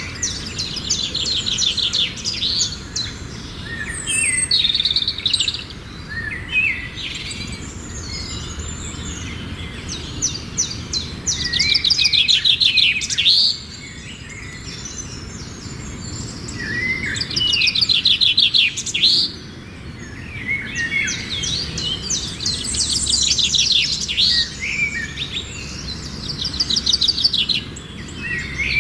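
Songbird singing: repeated high-pitched phrases of rapid trilled notes mixed with quick rising and falling whistles. Each phrase lasts a second or more, with short pauses between, over a steady low background rumble.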